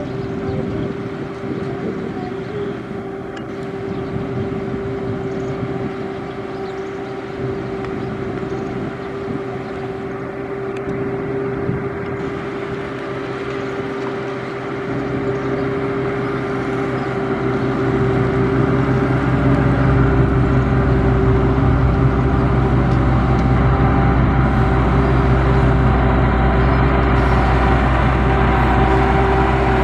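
Heavy diesel construction machinery running, with a steady whining tone over the engine. The deep engine sound grows louder about halfway through and stays loud.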